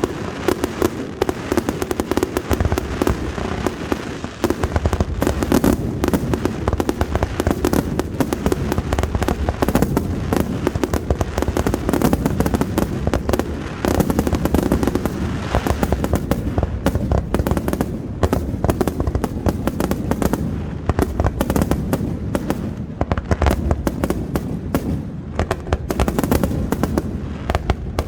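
Aerial fireworks display: a dense, unbroken barrage of shell bursts, bang after bang in rapid succession, with heavy low booms.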